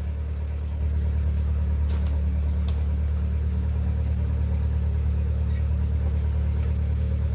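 An engine running steadily with a low, even drone that gets louder about a second in.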